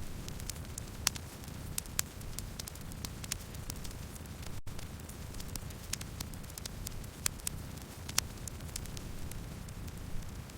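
Campfire burning: a steady low rumble with irregular sharp crackles and pops, a handful of louder snaps among them. The sound cuts out for an instant about halfway through.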